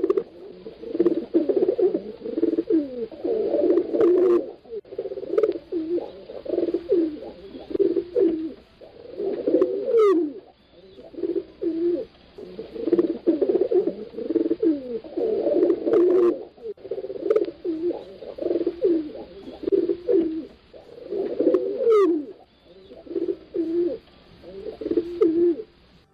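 Pigeons cooing over and over in low, throaty phrases that follow one another with hardly a break. Two brief high rising squeaks come through, about a third of the way in and again near the end.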